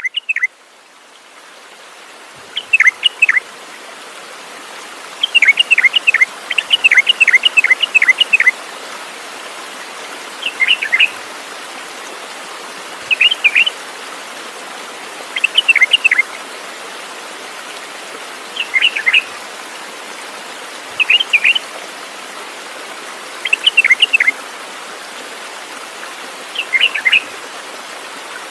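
A bird calling in short clusters of two to four sharp chirps, repeated every two to three seconds, over a steady hiss that swells in over the first few seconds.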